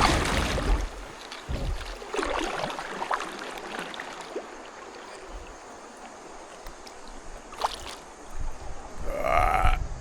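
Kayak moving down a creek: water rippling and a few paddle splashes, with wind buffeting the microphone in the first second. Near the end, a short vocal sound from the paddler.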